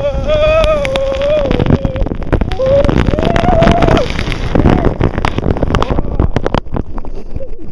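Water rushing and wind buffeting the microphone on a ride down a water slide, with a long, high, wavering yell twice in the first four seconds and a run of sharp splashes and knocks after about five seconds.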